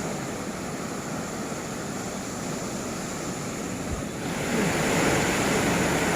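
Ocean surf breaking and washing up the beach, with wind buffeting the microphone; the rush swells louder about four seconds in.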